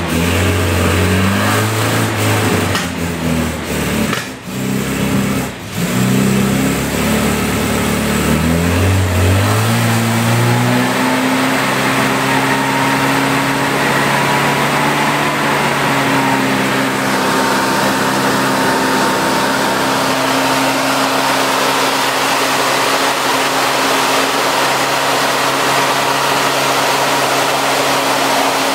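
Newly rebuilt 1345cc A-series engine of a 1967 Mini Moke running on its first start-up, on part choke. For about the first ten seconds its speed wavers unevenly, dipping briefly twice, then it picks up to a faster speed and holds it steadily.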